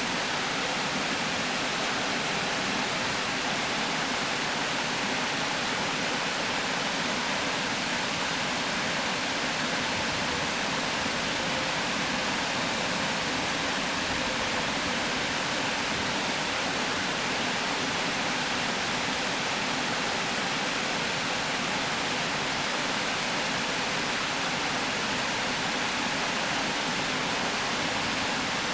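River water pouring steadily over a weir: an even, constant rush with no breaks.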